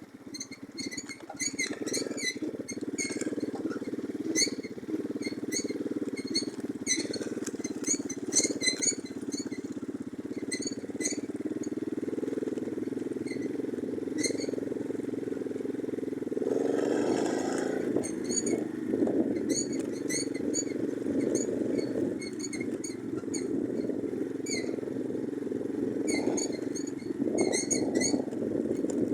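Orion-100 moped engine running steadily under way, with many short squeaks and clicks from the bike over the bumps. About seventeen seconds in, the engine briefly gets louder and higher.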